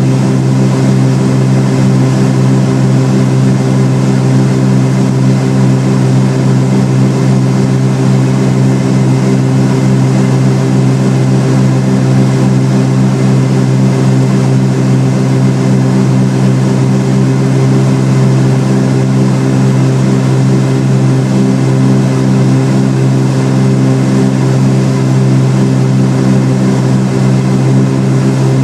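Twin piston engines and propellers of a Cessna 310R running at a steady power setting: a loud, even drone with a deep, constant pitch that does not change.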